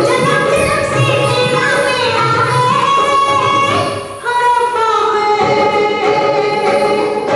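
A woman singing over instrumental accompaniment, her voice sliding between held notes. The music thins briefly about four seconds in.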